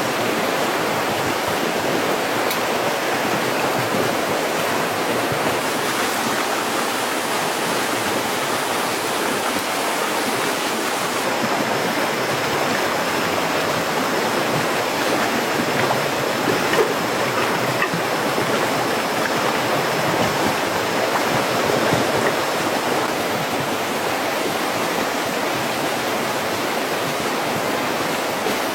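Steady rushing of flowing water, like a stream. A faint thin high tone sounds over it from about 11 to 23 seconds in.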